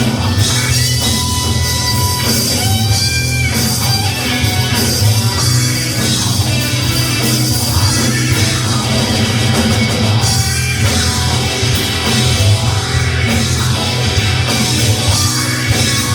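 Rock band music with electric guitar and drums playing steadily.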